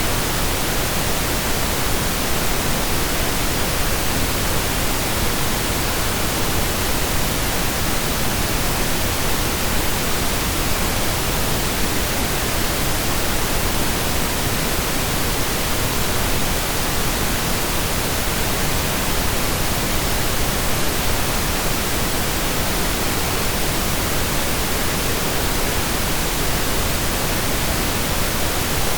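Synthesised pink noise, steady and unchanging, an even hiss spread across the whole range like distant steady rain.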